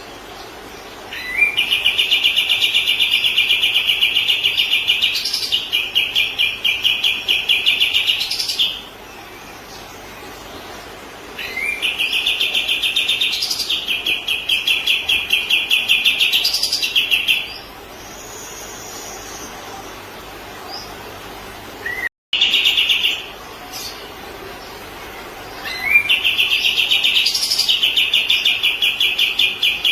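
Kapas tembak songbird song: long, very fast trills of rapidly repeated high notes, each bout lasting about seven seconds, three long bouts and one short burst between them. It is a looped masteran recording used to teach white-rumped shamas.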